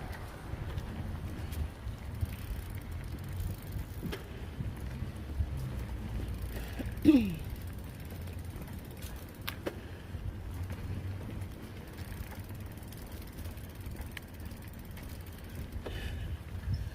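Bicycle riding heard from a bike-mounted camera: steady low wind and tyre rumble with scattered light clicks from the drivetrain. About seven seconds in, a short falling squeal is the loudest sound, and a fainter one follows a couple of seconds later.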